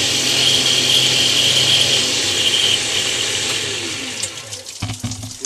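Router with a small diamond bit grinding into a natural stone tile, running steadily, then switched off about three seconds in and winding down with a falling hum.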